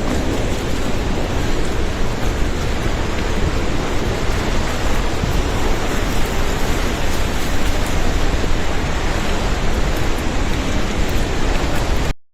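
Debris-laden floodwater of the Bhote Koshi river rushing past in a flash flood: a loud, steady, even rush of noise that stops abruptly near the end.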